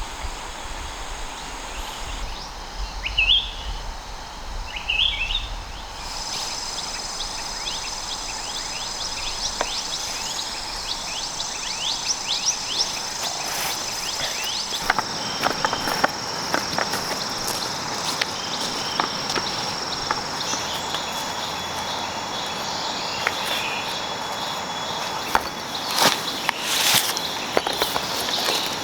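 Forest insects trilling steadily on high, even tones, with two short bird chirps early and scattered crackling clicks and rustles that grow denser and louder toward the end.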